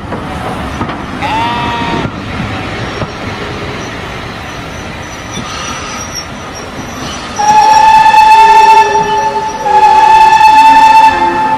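Steam locomotive sound with a steady rumble of running on the rails. A short whistle comes about a second in, and near the end come two long, loud blasts on a single-note steam whistle, separated by a brief break.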